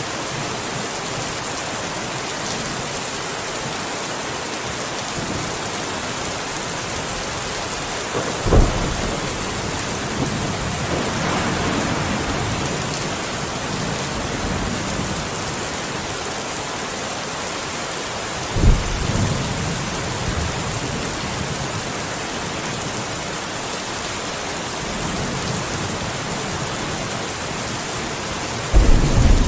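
Steady rain falling, with thunder: a sharp clap about a third of the way in, another about two-thirds in that rumbles on for a couple of seconds, and a louder rolling peal near the end.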